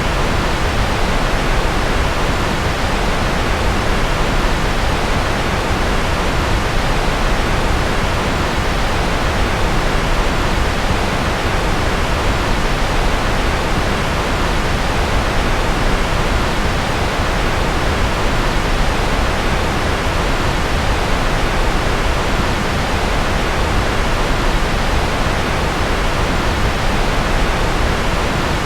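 Steady rushing noise with no change at all, heavier in the bass: a continuous rocket-noise sleep track.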